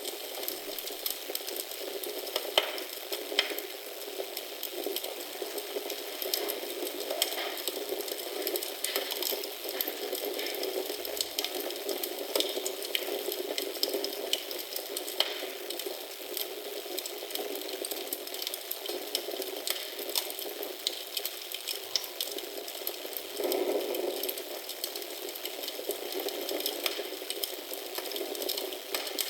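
Wood fire in a fireplace crackling: a steady hiss with frequent small pops and snaps.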